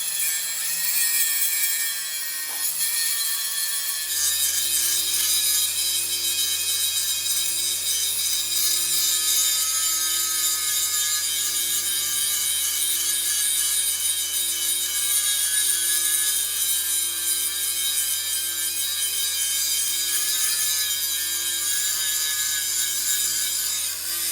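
Steady rasping, scraping noise of metal being worked with a tool during a brake spring repair. About four seconds in, a steady low machine hum joins it.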